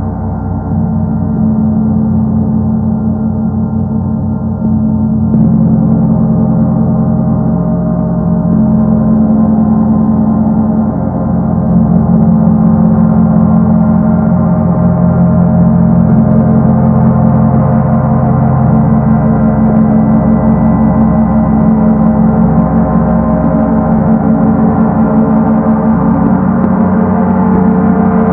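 Paiste Sedna planet gong played continuously, a dense rumbling wash of many ringing tones with the low hum strongest. It swells louder in steps, about five seconds in and again around twelve seconds, then holds at full strength.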